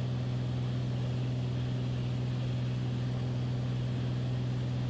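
Beechcraft Bonanza's piston engine and propeller droning steadily in level flight, a constant low hum with no change in pitch.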